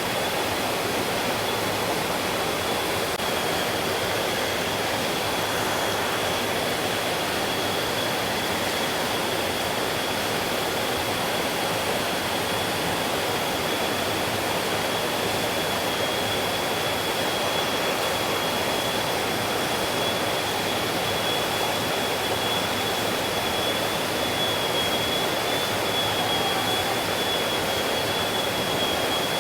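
Mountain stream rushing steadily over rocks, an even, unbroken water noise. A thin, steady high-pitched tone sits above the water sound.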